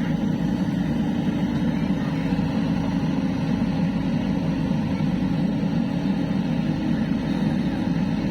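Heavy diesel engine running steadily at a constant speed, with an even low drone.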